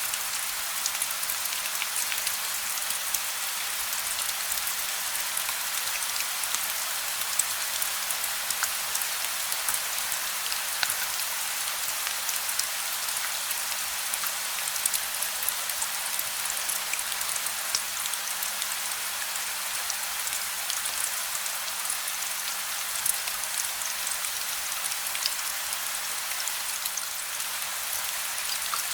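Steady rain with individual drops pattering on a surface, an even hiss with scattered sharp drop ticks and no thunder.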